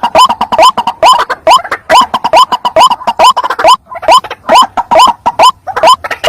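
White-breasted waterhen (ruak-ruak) calling over and over, about three short upward-gliding notes a second, with a brief break near the middle: a lure-call recording.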